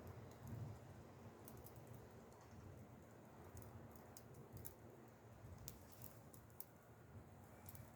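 Faint wood campfire crackling: irregular small sharp pops and ticks over a soft low rumble of the burning fire.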